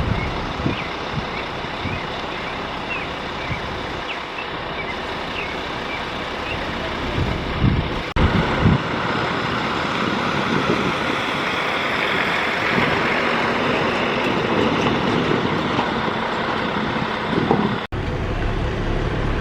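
Farm tractor engines running in a dense, steady wash of outdoor noise, broken by abrupt cuts twice.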